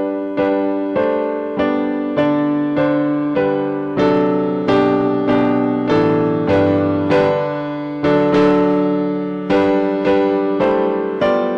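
Piano playing a slow hymn tune in chords, each chord struck and fading, one roughly every half second: the introduction to the closing hymn.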